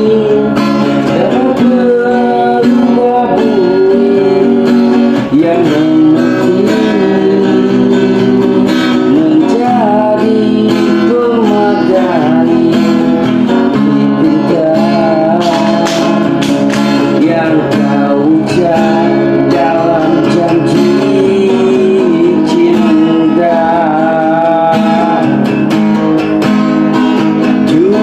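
Music: an acoustic guitar strummed steadily, with a voice singing a melody over it.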